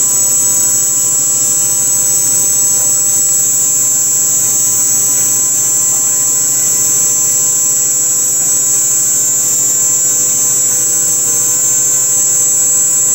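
Haas VF-2 CNC vertical mill cutting a part, a steady high whine with several steady lower tones underneath, unchanging throughout.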